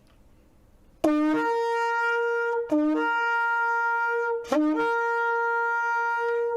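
Shofar blown in the shevarim call: three blasts of about two seconds each, back to back, each starting on a low note and jumping up to a higher held note. The three broken blasts are the wave-like alarm call.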